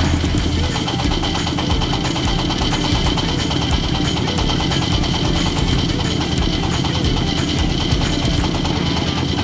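Diesel engine of a mini self-loading concrete mixer running steadily, with background music and a light, steady beat over it.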